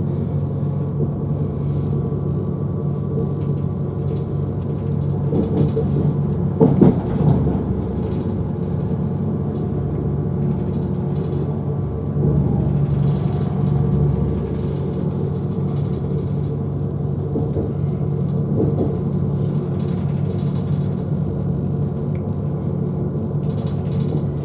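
CrossCountry Class 220 Voyager diesel train running at speed, heard from inside the vestibule: a steady rumble with the drone of its underfloor diesel engine, and a few louder knocks about six to seven seconds in.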